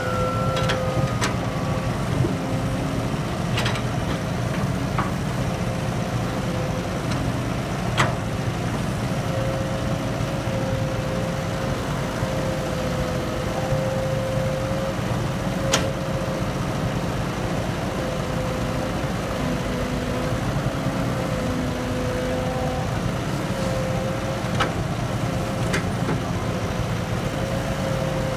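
Excavator's diesel engine running steadily under load, with a wavering whine over the rumble. Sharp knocks come every few seconds, the loudest about a third and half of the way through.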